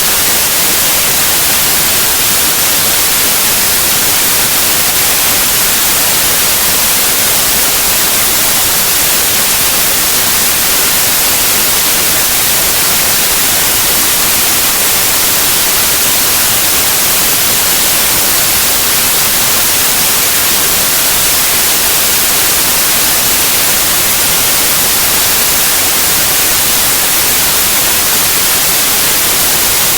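Loud, steady white noise: an even hiss spread across all pitches, strongest in the highs, unchanging throughout.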